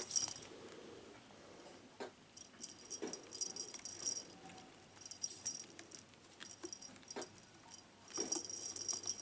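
Small jingle bell jingling in several short, separate shakes, with a few soft knocks in between, during play with a cat.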